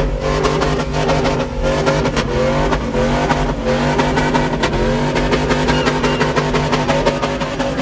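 Vehicle engines running and revving, their pitch rising and falling repeatedly.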